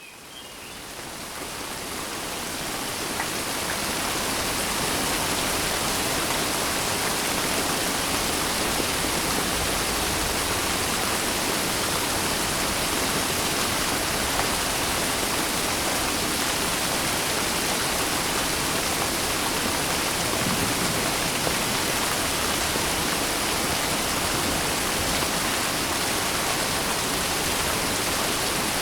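Heavy, steady rain, a dense even hiss. It fades in over the first few seconds, then holds steady.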